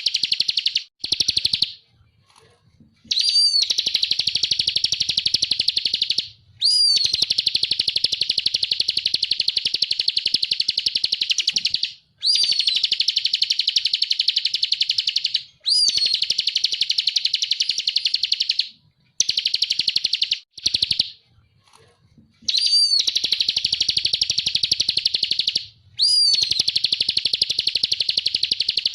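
A ciblek (bar-winged prinia) singing in the 'ngebren' style: long, very fast, high buzzing trills of about three to five seconds each, every one opening with a short slurred note, separated by brief pauses.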